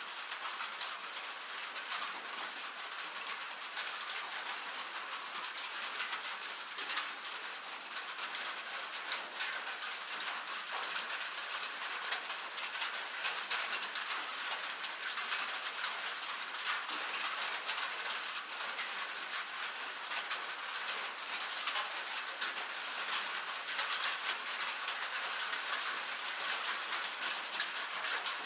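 Rain falling on a metal roof: a steady, dense patter of many small drop ticks.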